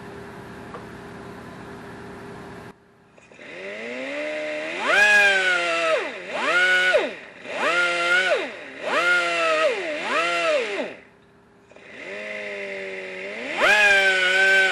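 Die grinder run in about six short bursts, each a rising whine as it spins up that holds and falls away when released, with a brief pause near the end before it starts again. It is grinding down a brass throttle-shaft bushing that sticks out of a carburetor's aluminum base plate.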